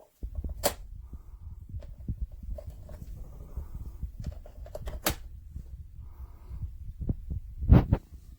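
Handling noise: a low rumble with a few sharp clicks and knocks, the loudest near the end.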